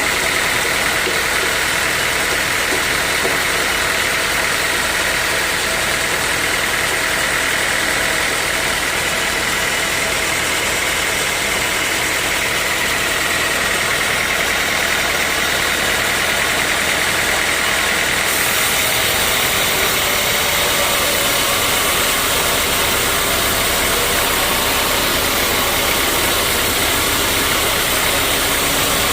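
Sawmill machinery running steadily: a constant, loud mechanical din with a steady high whine. The high end grows brighter about two-thirds of the way in.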